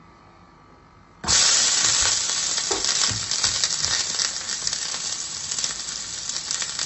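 Food dropped into hot oil in a pan, bursting into a loud sizzle about a second in and carrying on as a steady crackling hiss with many small spitting pops.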